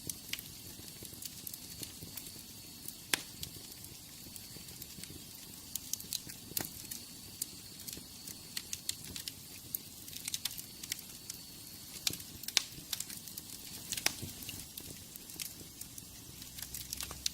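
Wood fire in a fireplace crackling: irregular sharp pops and snaps over a steady soft hiss.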